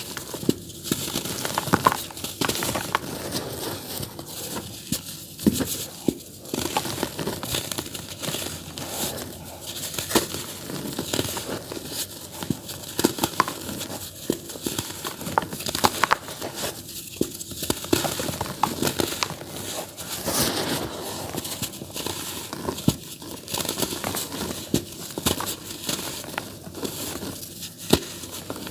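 Dry clumps of earthy dirt being crumbled in a tub: a continuous gritty crackle studded with sharp snaps, pausing briefly now and then.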